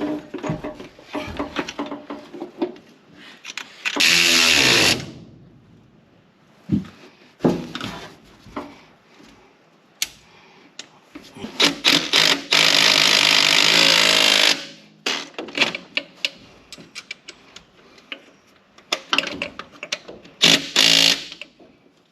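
A power tool running in short bursts while tightening fasteners: about a second's run, a longer run of about two seconds, then two quick runs near the end, with metal tool clinks and knocks between them.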